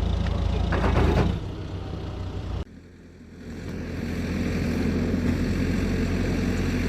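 Heavy vehicle engine running with a steady low drone. The sound cuts off abruptly about two and a half seconds in, and another engine sound rises and settles into a steady run after a second or so.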